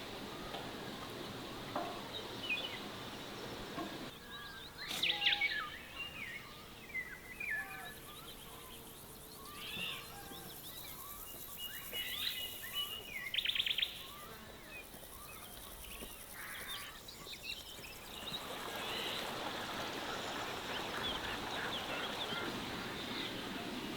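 Birds chirping and calling over a faint, steady outdoor background hiss. The chirps cluster in the middle, and the hiss drops away about four seconds in and rises again near the end.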